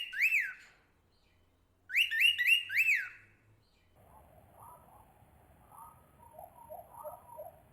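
Bird calls: a loud phrase of quick rising-and-falling whistled notes, then the same phrase again about two seconds in. From about four seconds in, softer, lower calls follow, with a faint thin high tone above them.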